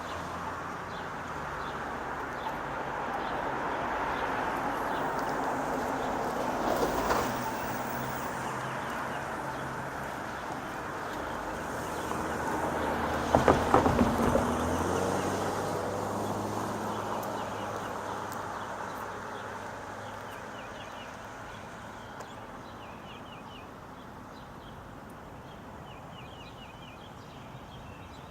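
Motor vehicles passing on a road, with engine hum and tyre noise swelling and fading; the loudest passes come about 7 and 13 seconds in. Small birds chirp near the end as the traffic fades.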